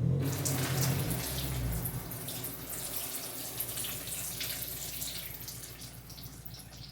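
Leftover fluid pouring and splashing out of an upturned LS1 V8 engine. It starts suddenly with a heavy rush and slowly tapers off toward a trickle.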